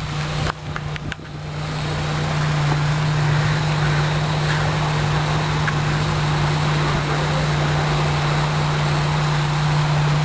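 2003 Saturn VUE's 2.2-litre four-cylinder engine idling with a steady low hum. There are a few faint clicks about half a second to a second in.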